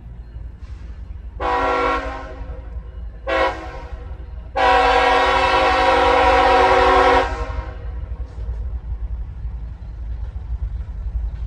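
CSX freight locomotive's air horn giving a horn salute: three blasts, one of about a second, a short one, then a long one of about two and a half seconds, over a steady low rumble.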